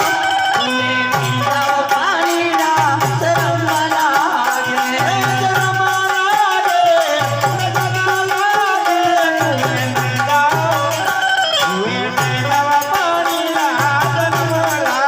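Ramamandal folk devotional music, loud, with a deep drum beat repeating about once a second under a wavering melody and jingling percussion.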